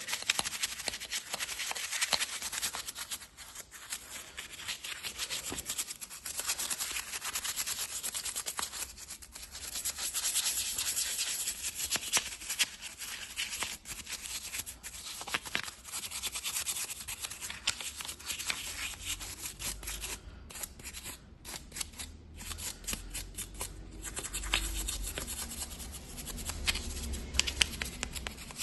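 A stiff brush scrubbing cleaning product into a grimy engine: continuous irregular scratching strokes, with a few short breaks past the middle.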